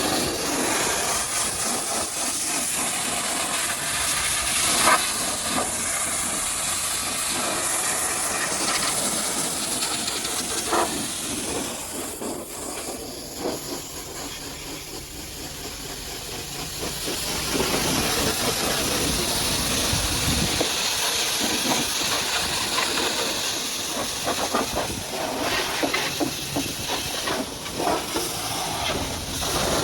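High-pressure washer jet spraying against a muddy truck: a steady hiss that eases off for a few seconds in the middle and then comes back at full strength.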